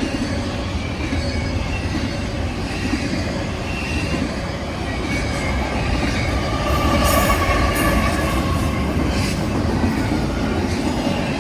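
Freight train rolling past, a steady rumble of steel wheels on rail, with a wavering wheel squeal that grows strongest in the middle.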